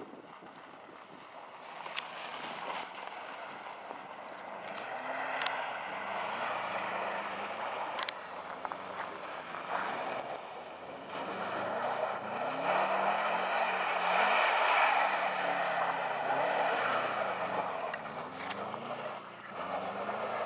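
Subaru Forester's flat-four engine revving up and down as the car slides sideways on snow and ice, over a rushing hiss that swells to its loudest about two-thirds of the way through.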